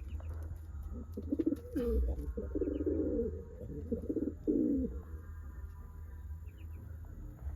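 Domestic pigeons cooing in several low runs from about a second in to about five seconds in, with a few faint high chirps, over a steady low hum.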